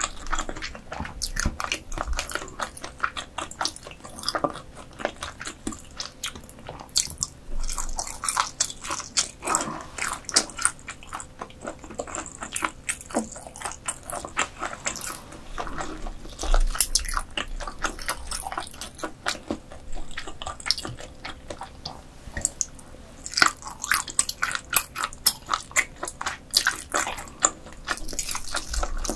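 Close-miked chewing of croaker dishes, with irregular wet, sticky mouth clicks and smacks several times a second.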